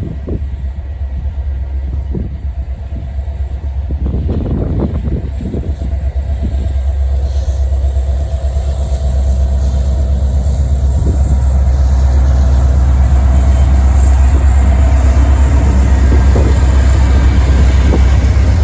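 Intermodal freight train led by diesel locomotives approaching, its rumble growing steadily louder, with wind buffeting the microphone in the first few seconds.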